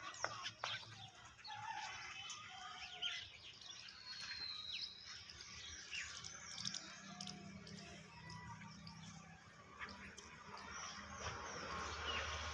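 Birds chirping in short, scattered calls, with a faint low hum underneath from about six seconds in.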